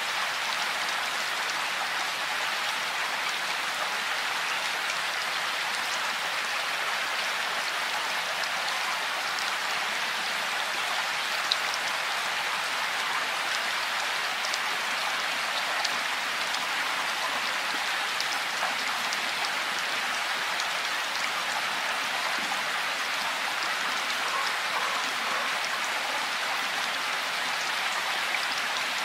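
Steady rain falling: an even hiss of drops with scattered single drops ticking, one a little sharper about eleven seconds in.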